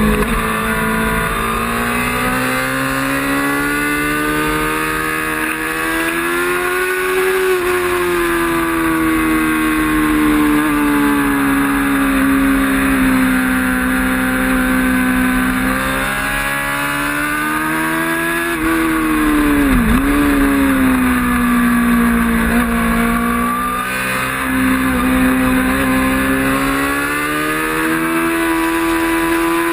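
Racing motorcycle engine running hard at high revs, its pitch climbing and falling with throttle and gear changes, with a sharp drop and climb back about twenty seconds in.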